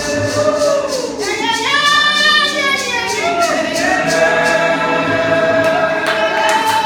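Church congregation singing together, many voices holding long notes that rise and fall, over a steady beat of sharp strikes about three or four times a second.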